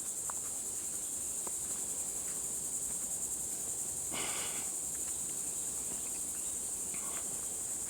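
Steady high-pitched drone of an insect chorus in the woods, with a brief scuff about four seconds in.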